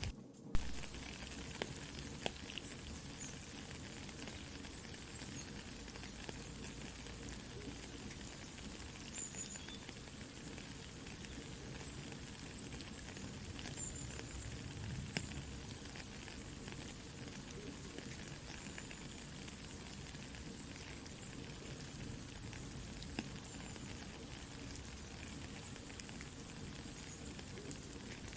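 Soft rain falling in a steady hiss, mixed with a campfire crackling in scattered small pops. There is a brief dropout and a sharp pop about half a second in.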